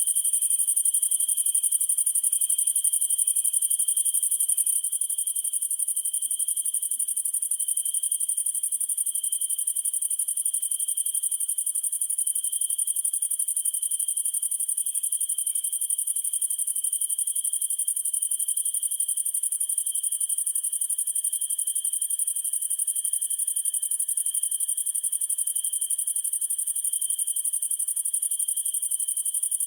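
Summer-night chorus of crickets and other night insects: a steady high-pitched shrill with a lower, pulsing trill beneath it, dropping slightly in loudness about five seconds in.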